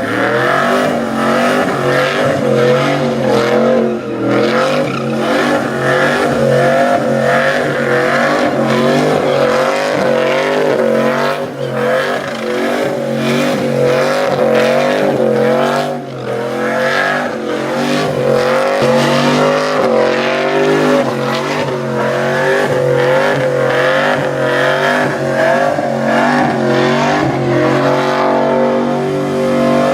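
Truck engine held at high revs with tyres squealing through a burnout, the pitch wavering as the revs rise and fall, with brief dips in a few places.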